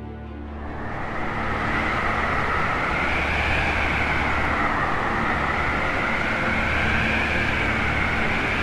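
Howling wind sound effect: a steady rushing that swells up in the first second or so as music fades out, with a whistling pitch that slowly wavers up and down.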